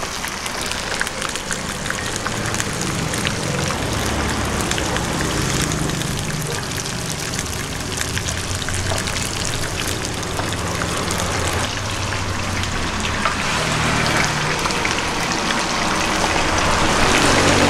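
Tofu frying in hot oil: a steady sizzle with dense crackling, growing a little louder near the end.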